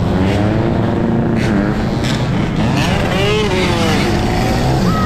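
Dirt bike engine running, its pitch rising and falling as the rider works the throttle.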